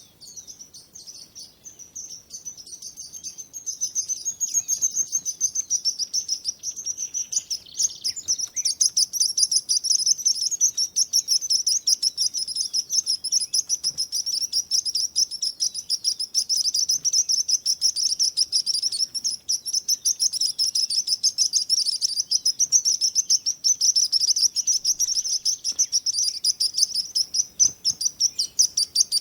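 Birds chirping in a dense, rapid, continuous chorus of high-pitched calls, growing louder about four seconds in.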